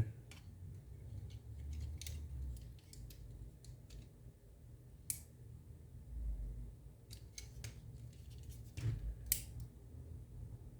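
Scattered light clicks and taps from handling the opened Xbox controller's plastic parts and metal battery contacts, with a low rumble of handling on the bench; the sharpest clicks come about five seconds in and near the end.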